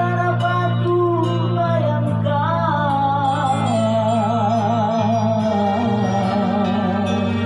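Male singer holding long, high, belted notes with a wide, even vibrato over a steady band backing with held chords.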